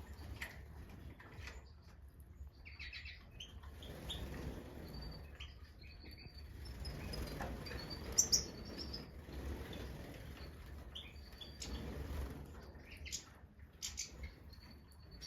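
Major goldfinches chirping in an aviary: scattered short, high calls with a few brief flurries, the loudest cluster about eight seconds in, amid light rustling and wing flutters.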